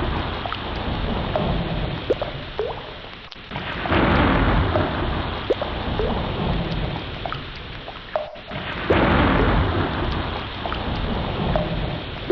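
Ocean sound: swells of wash-like water noise surging in about every four to five seconds and fading away, with short rising bubbly blips between them.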